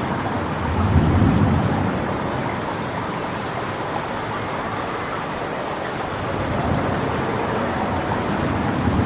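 Strong wind rushing steadily through coconut palm fronds, swelling in low gusts about a second in and again near the end.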